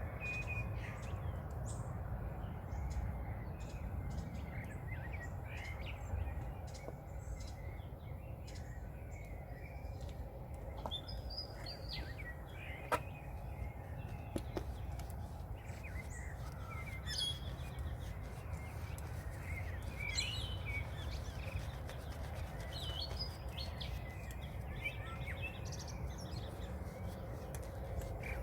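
Wild birds singing: scattered short chirps and calls over a steady low rumble, with one sharp click about halfway through.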